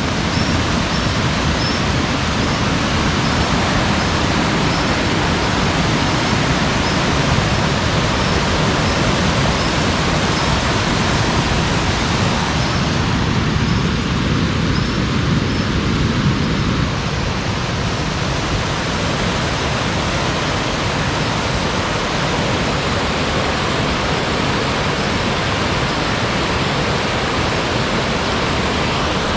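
Rushing water of a mountain waterfall close by: a loud, steady, unbroken noise. A faint high chirp repeats about once a second over it.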